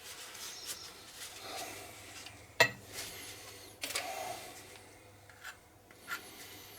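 Scratchy rubbing and scraping as dried valve-grinding paste is cleaned off a cylinder-head valve and seat, with two sharp metallic clicks a little over a second apart near the middle and a few lighter ticks after.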